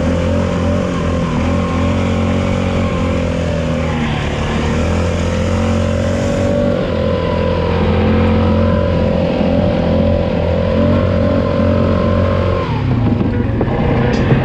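ATV engine running steadily while riding. Its pitch dips briefly about four seconds in, then falls away near the end as it slows.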